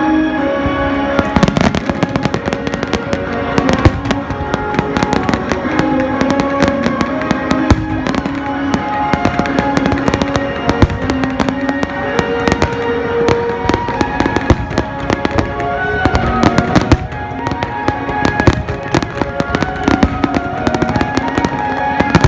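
Fireworks bursting in rapid, dense bangs and crackles, starting about a second in, over music with sustained held notes.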